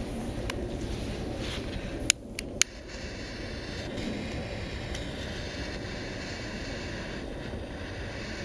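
Hardwood and pine-cone fire burning in a small sheet-metal wood stove: a steady rushing noise with occasional sharp crackles, the two loudest snaps half a second apart about two seconds in.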